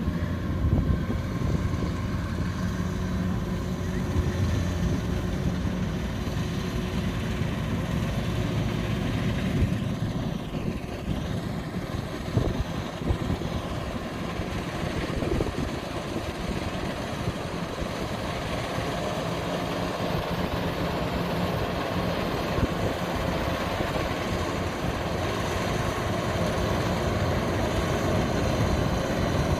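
Kubota DC93 rice combine harvester running steadily, its diesel engine droning without pause.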